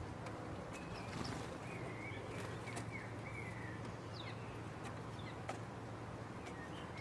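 Small garden birds calling: a scatter of short, high chirps and twittering notes, over a steady low hum.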